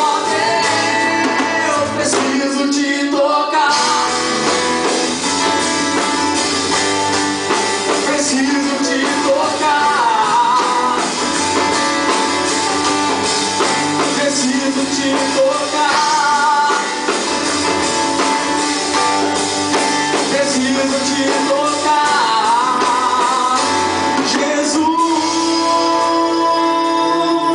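A band playing live with a sung lead voice, guitar among the instruments, continuous and steady in level.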